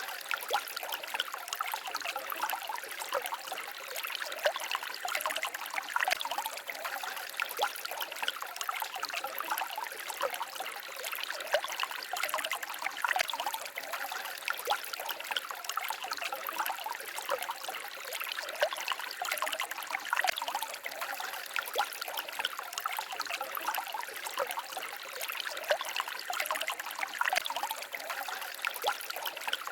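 A small forest stream babbling and trickling over rocks: a steady, bright rush of water full of quick little splashes and gurgles, with little deep rumble.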